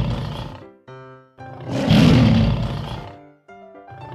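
Lion roaring, played over and over: one roar ends just after the start, a brief run of musical notes follows, then a full roar of about two seconds, then the notes again.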